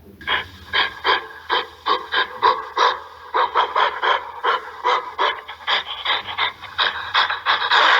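Gorilla giving a rapid series of short, panting calls, about three to four a second. Near the end they run together into one louder, continuous call.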